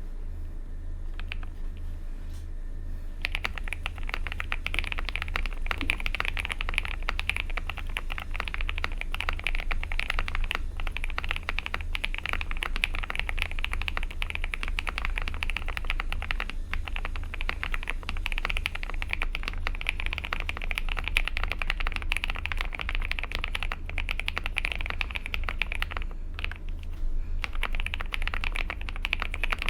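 Typing on a Monka3067 mechanical keyboard with lubed KTT Strawberry linear switches, a polycarbonate plate and PBT double-shot Cherry-profile keycaps. A couple of single keystrokes, then steady rapid typing from about three seconds in, with a short pause near the end.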